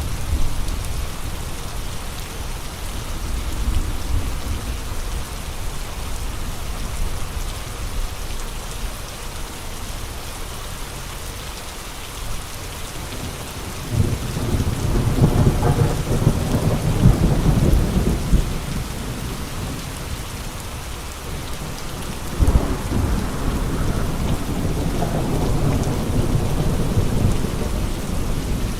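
Steady rain with two long, low rumbles of thunder: one swells up about halfway through, and a second sets in abruptly a few seconds later and rolls on for several seconds.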